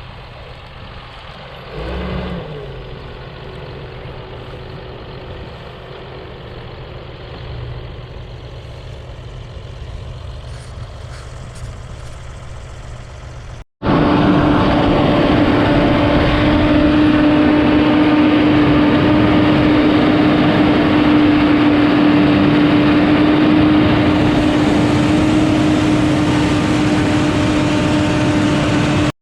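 Tractor engine running steadily, fairly quiet at first. About halfway through, the audio cuts to a much louder engine holding one steady pitch.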